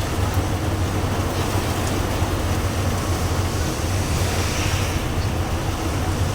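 Heavy rain falling steadily: a dense, unbroken noise with a strong low rumble.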